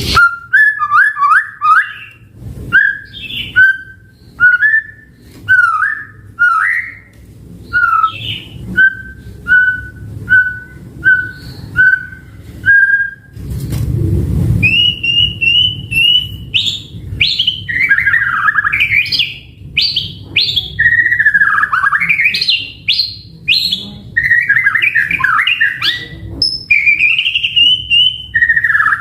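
White-rumped shama (murai batu) singing: a run of short whistled notes about once a second, then, after a brief low noise about halfway, a faster continuous song of whistles gliding up and down.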